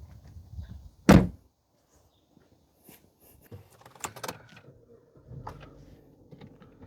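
A car door slamming shut about a second in, followed by a few light clicks and knocks.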